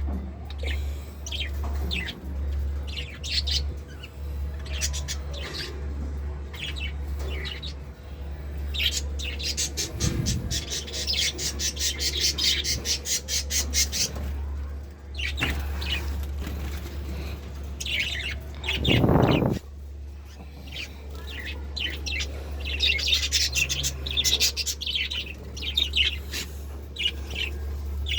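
Lovebirds calling in short high chirps and squawks, breaking twice into long runs of rapid chirps, over a steady low hum. A brief low sound about two-thirds of the way through is the loudest thing.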